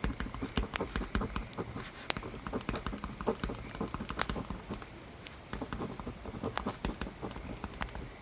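Handwriting on paper: quick, irregular scratchy strokes with a short pause about five seconds in, over crackling from a bonfire.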